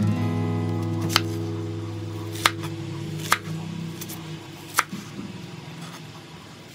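A large kitchen knife cutting through an onion into a wooden cutting board, four sharp knocks of the blade spaced a second or so apart. Under them a guitar chord of background music rings and slowly fades.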